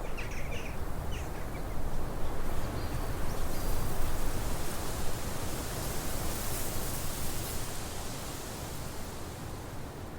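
Steady rushing noise like wind or running water, swelling in the middle and easing off near the end, with a few short bird chirps in the first second and again a few seconds in.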